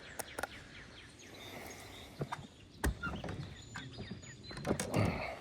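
Outdoor ambience with birds chirping faintly in the background, broken by scattered clicks and knocks, the loudest a low thump a little under three seconds in.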